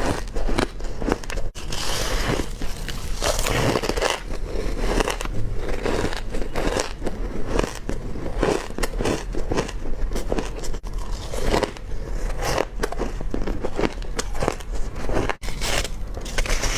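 Crushed ice being bitten and crunched between the teeth: a dense, unbroken run of sharp crunches in quick succession.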